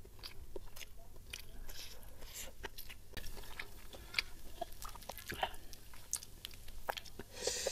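Close-miked chewing with the mouth closed: faint, scattered wet clicks and smacks of food being chewed.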